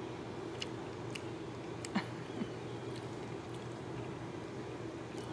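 Faint chewing and soft wet mouth clicks from people eating canned Vienna sausages, with a few short clicks scattered through, the clearest about two seconds in, over a steady low hum.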